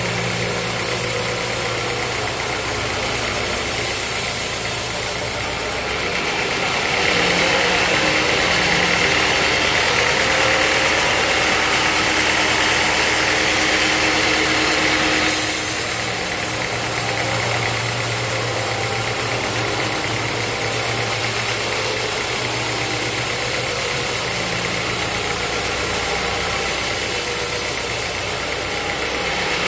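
Sawmill machinery running steadily with a low hum. It gets louder and hissier from about six to fifteen seconds in, then settles back.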